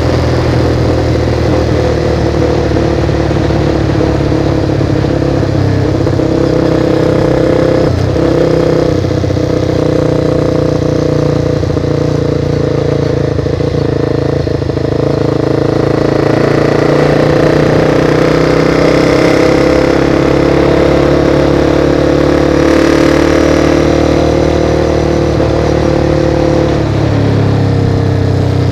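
Motorcycle engine running steadily while riding, its pitch holding fairly even and dropping in the last couple of seconds as it slows.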